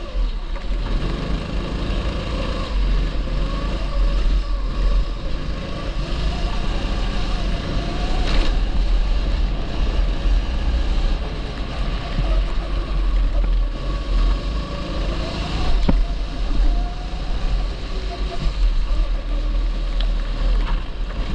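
A 270cc kart engine running at speed, its pitch rising and falling again and again as the kart accelerates and slows through corners, over a heavy, constant low rumble.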